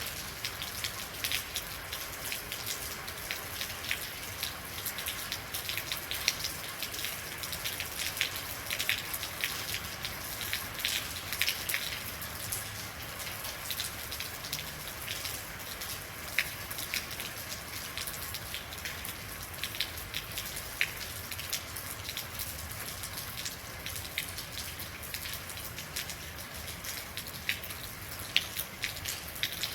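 Steady real rain falling, with many distinct, irregular drop ticks over a continuous high hiss.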